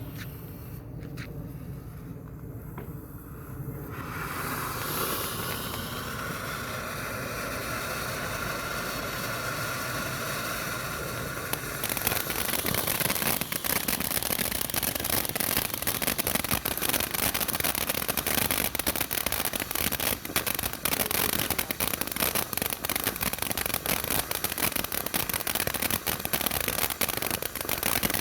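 Consumer firework burning: a hiss that starts about four seconds in, then from about twelve seconds in a dense, rapid crackling that keeps going.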